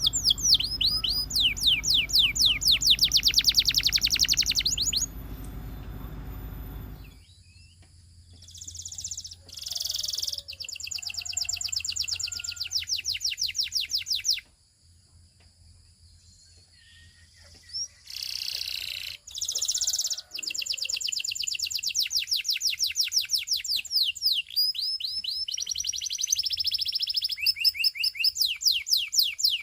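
Russian canary singing in long rapid trills of fast repeated high notes, broken by short pauses. A low hum runs underneath for the first several seconds and cuts off suddenly.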